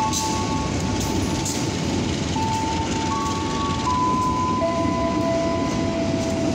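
Freight train of loaded ballast hopper wagons rolling past at steady speed: a continuous rumble and clatter of steel wheels on the rails. Over it sounds a string of long, clear held tones that step between a few pitches.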